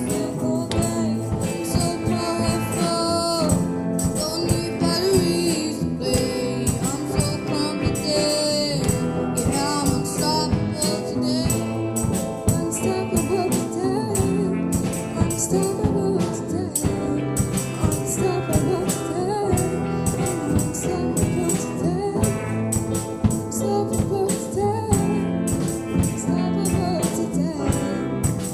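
Live soul band playing a song with singing, a steady beat and tambourine.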